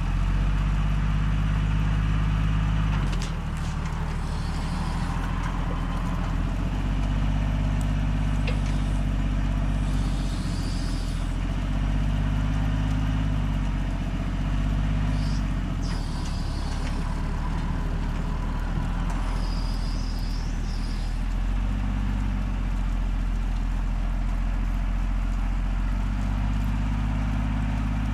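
An engine running steadily, its speed dropping and picking up again several times, with a few short high hisses over it.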